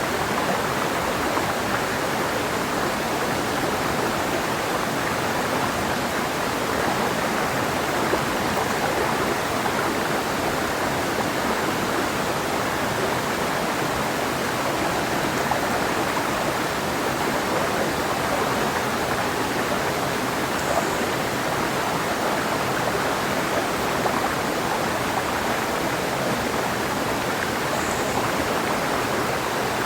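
Clear mountain river flowing over rocks: steady rushing and splashing water.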